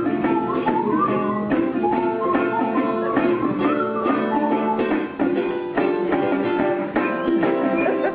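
Instrumental break of a live jazz-age song: ukulele strumming steadily under a melody line that slides between notes in the first second or so.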